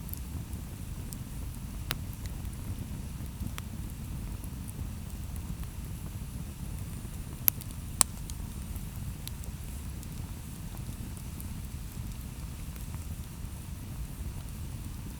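Campfire burning, with a steady low rumble under scattered faint crackles and two sharp, loud pops about halfway through.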